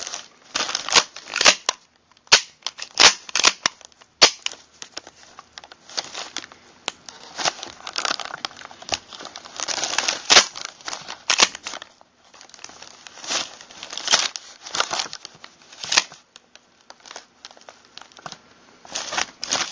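Parts of a Mossberg 600AT pump shotgun being handled and fitted during reassembly: irregular sharp metal clicks and clacks mixed with short scraping and rustling.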